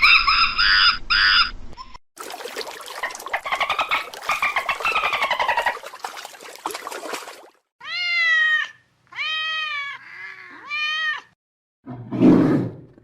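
A run of separate animal clips. A noisy stretch of calling lasting about five seconds is followed by a domestic cat meowing four times, each meow rising and then falling in pitch, and a low, loud call begins near the end.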